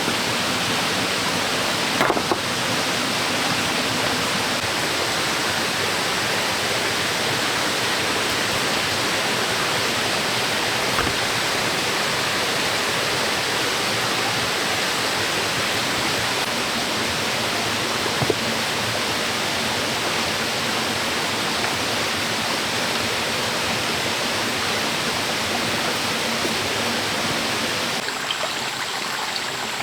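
Steady rushing noise of flowing water, like a stream, with a couple of light knocks.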